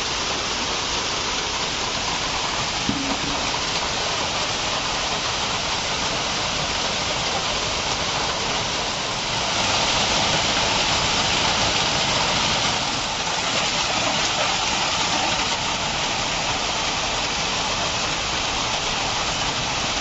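Rain pattering steadily on a tin roof overhead, growing heavier for a few seconds about halfway through.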